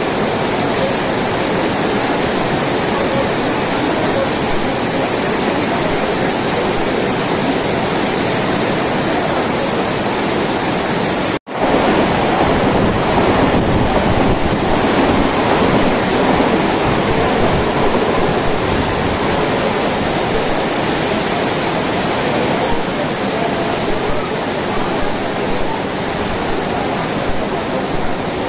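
Heavy rain pouring down in a steady rushing hiss. The sound cuts out for an instant about eleven seconds in and comes back slightly fuller.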